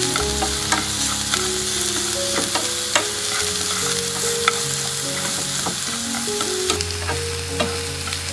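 Minced lemongrass and garlic with chili sizzling steadily in hot oil, being fried golden, stirred with wooden chopsticks that click against the pan now and then.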